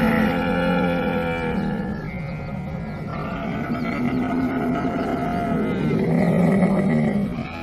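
Camel calling: one long, pitched call that fades out about two seconds in, then a second that swells and breaks off near the end.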